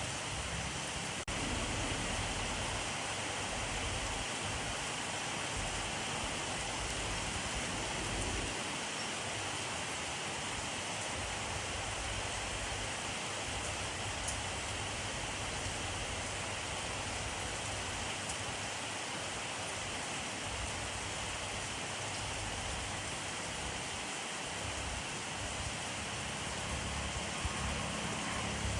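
Steady rainfall, an even hiss of rain, with a brief dip in level about a second in.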